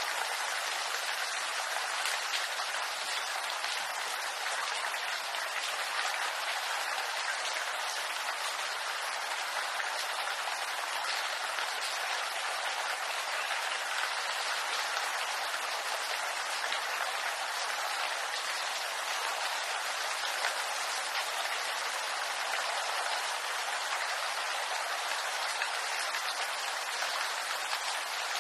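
Steady rain falling on bamboo foliage: a dense, even patter of drops.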